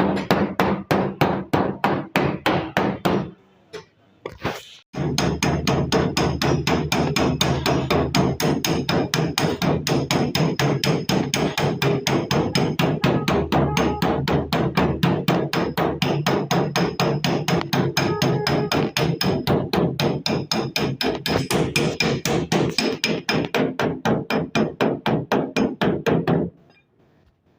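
Body hammer beating sheet-steel car body panel in rapid, even blows, several a second: panel-beating a car's body side. The hammering pauses briefly about three seconds in, then runs on steadily until it stops near the end.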